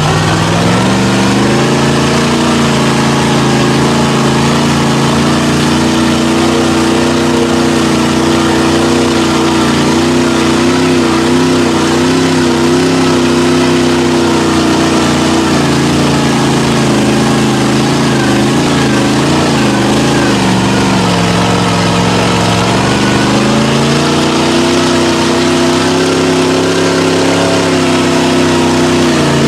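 A mud truck's engine revving hard. It climbs to high revs in the first second or so and holds there with a wavering pitch. About two-thirds of the way through the revs drop briefly, then climb and hold again.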